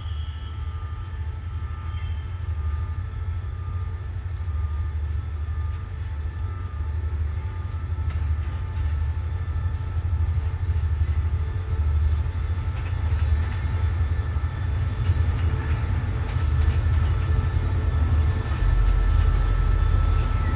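A train pulling into the station, its diesel locomotive's engine running with a deep pulsing rumble that grows steadily louder as it draws near.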